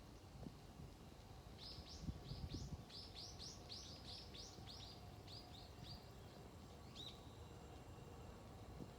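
A bird singing a quick series of short, high chirps, about four to five a second for some four seconds, growing fainter toward the end, then one more note near the end. A few low thumps come about two seconds in, over a faint low background rumble.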